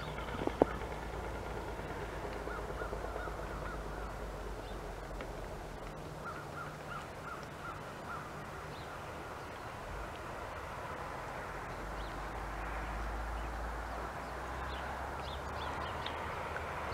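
A bird calling in two short runs of about six quick repeated notes, over a steady low rumble, with one sharp click about half a second in.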